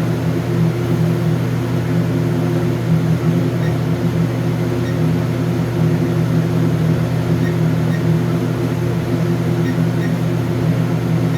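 Steady low hum of running machinery, several even low tones held without change, typical of boiler-room equipment running.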